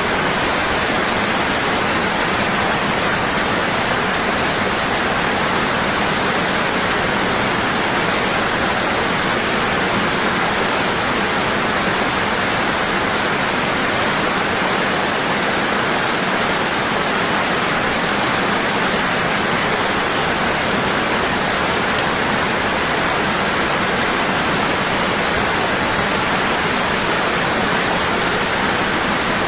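Waterfall falling strongly and constantly: a steady, even rush of water that does not change.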